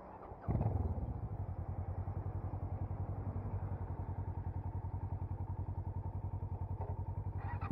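Motorcycle engine starting up about half a second in and settling into a steady idle with an even, pulsing beat.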